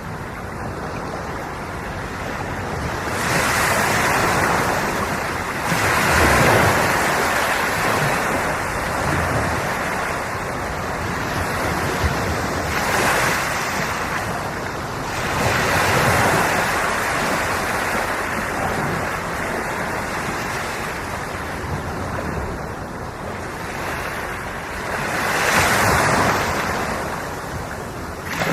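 Sea waves washing onto the shore. The surf swells up and falls back several times, a few seconds apart, over a steady rush of water.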